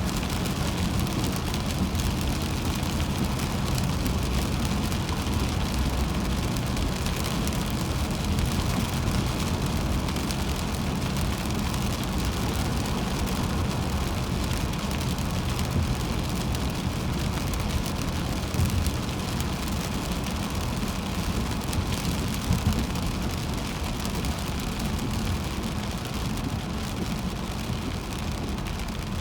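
A car driving on a highway in rain: steady low road rumble with the hiss of rain and wet tyres, heard from inside the cabin.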